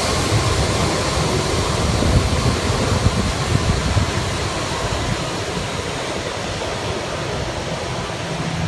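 Rushing roar of a departing jet airliner's engines and jet blast, fading slowly, with wind buffeting the microphone.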